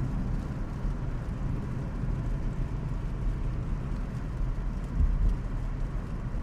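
Steady low rumble of a Subaru's engine and tyres on a snowy highway, heard from inside the car's cabin, with a brief louder bump about five seconds in.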